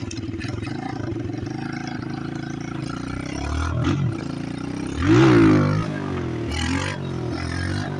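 Chinese pit bike's small single-cylinder engine running steadily, with a short blip of throttle about three and a half seconds in and a loud rev about five seconds in that rises and then falls back.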